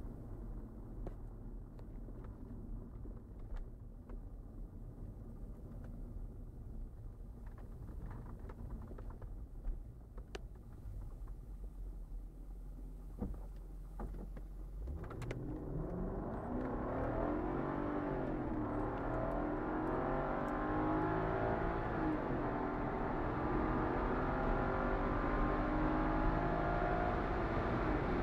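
Audi S6 4.2 quattro's V8 engine heard from inside the cabin, first running steadily at low revs. About halfway through, it comes under hard acceleration and its note climbs in pitch and grows louder to the end.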